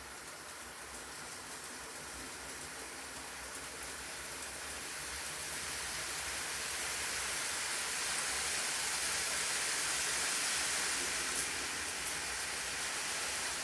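Model train running along the layout track, a steady rolling hiss that grows louder over the first eight seconds and then holds.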